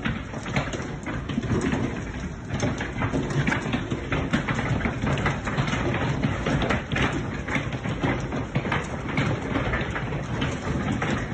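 Hailstones pelting down in a heavy storm: a steady rush of noise packed with many sharp, separate hits.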